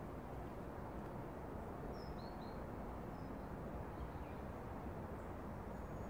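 A few faint, short bird chirps, about two to four seconds in, over a steady low outdoor background noise.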